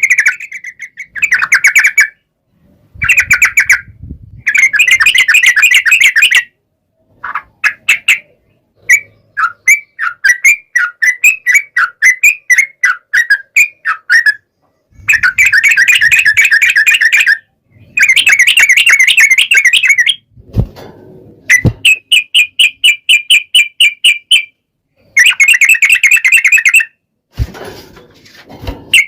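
Yellow-vented bulbul (trucukan) song: loud runs of rapid, bubbling chattering notes, each lasting a second or a few, repeated with short pauses. A few sharp clicks are heard about two-thirds of the way in and near the end.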